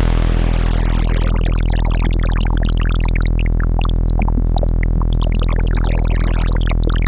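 Harmor software synthesizer holding a sawtooth note with its filter in noise mode; as the resonance is turned up, a dense spray of watery, bubbly blips appears over the steady tone, thickening from about a second in.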